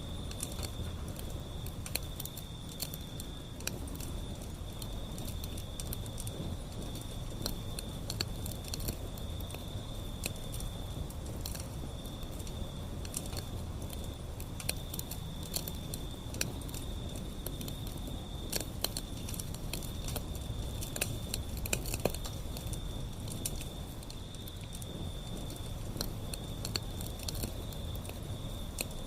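Wood fire burning: irregular sharp crackles and pops over a steady low rumble of flames.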